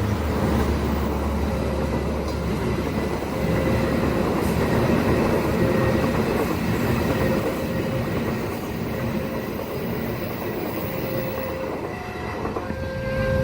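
Train passing at speed, a steady rumble and rattle of steel wheels on the rails.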